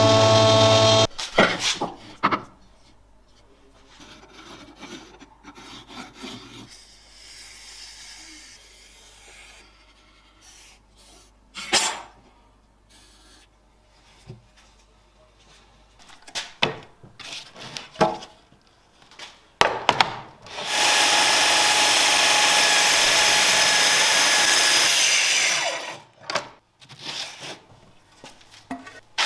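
Workshop sounds: scattered knocks and scrapes of tools on wood, then a power tool runs steadily for about five seconds, starting about twenty seconds in, and stops, followed by more knocks.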